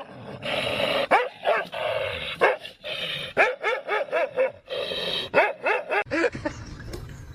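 A dog barking and yipping, a quick run of many short calls.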